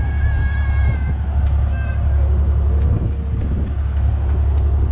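Steady low rumble of a passenger ferry under way, its engine and the wind over the deck. A short high-pitched cry sounds in the first second and another briefly just before two seconds in.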